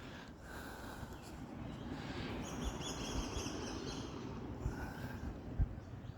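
Birds giving a rapid run of repeated high chirps for about two seconds in the middle, over a steady low rumble, with two short knocks near the end.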